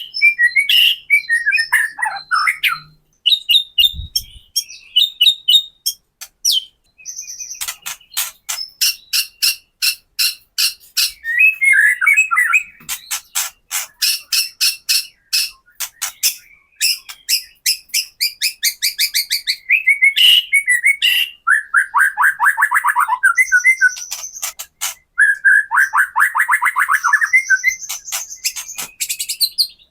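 White-rumped shama (murai batu) calling without pause: long runs of rapid, dry rattling clicks (the 'kretekan' call) alternating with short warbled whistled phrases.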